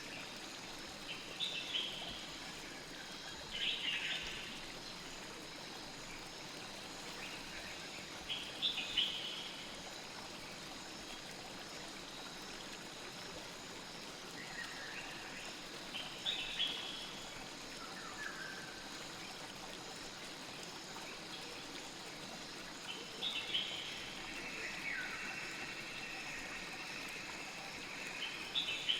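Steady flowing river water, with short high chirping animal calls breaking in now and then, about eight times.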